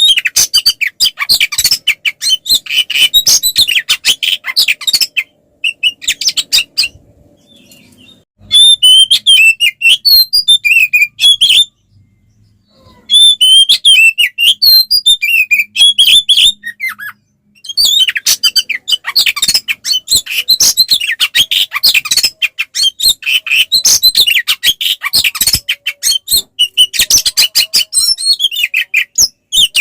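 Oriental magpie-robin (kacer) singing a fast, continuous run of loud, high chirps and whistles in an agitated, fighting-mode song. It breaks off for a few seconds about five seconds in and again briefly around twelve seconds in.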